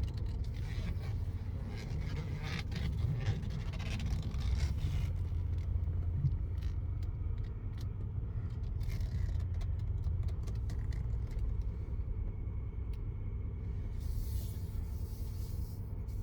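2019 Chevrolet Silverado 3500HD's 6.6-litre Duramax turbo-diesel V8 running as the truck drives at low speed: a steady low rumble, with scattered light clicks.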